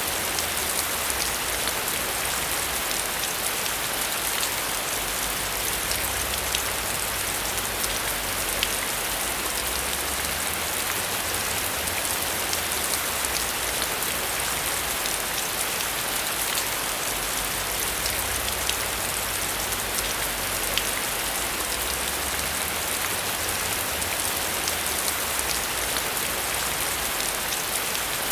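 Heavy rain on a metal roof, a steady dense hiss of water with many small, sharp drop ticks.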